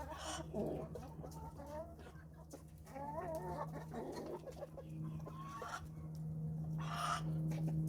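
Chickens clucking in short, wavering calls at intervals, over a steady low hum that gets louder in the second half.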